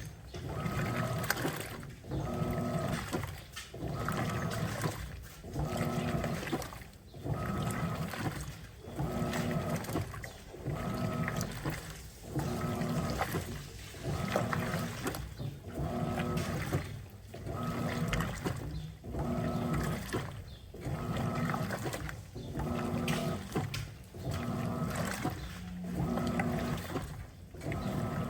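Electrolux Turbo Capacidade Premium 15 kg top-loading washer, fitted with the newer LPR16-style agitator, agitating a load of clothes. The motor hums and water swishes in even strokes about every second and a half, the drive reversing back and forth.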